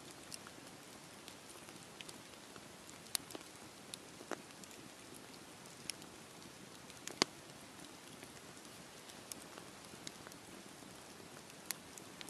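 Wood fire crackling over a soft hiss, with irregular small snaps and a few sharper pops.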